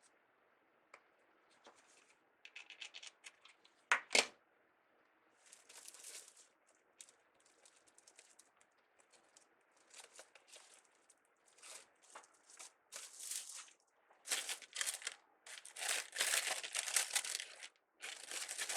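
Crinkly deco mesh and ribbon being handled and worked into a wreath: irregular rustling and crinkling, sparse at first and growing louder and busier near the end, with one sharp snap about four seconds in.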